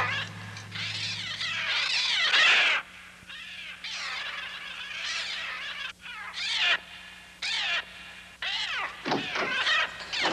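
Birds screeching: a run of loud, harsh calls, each one bending up and then down, repeating with short gaps.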